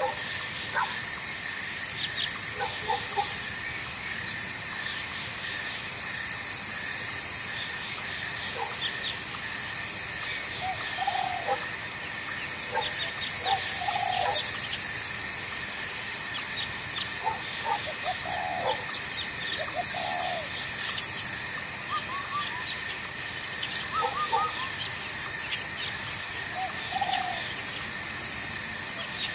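Night forest ambience: a steady chorus of crickets and other insects, with a very high buzzing that comes and goes in stretches of a few seconds. Scattered short animal calls sound throughout over a faint stream.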